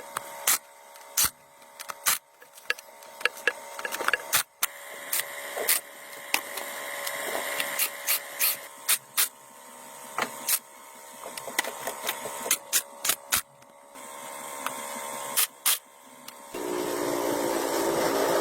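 Irregular sharp clicks and knocks of hand work with tools on engine parts. A second and a half before the end, a small motorised tool starts and runs steadily.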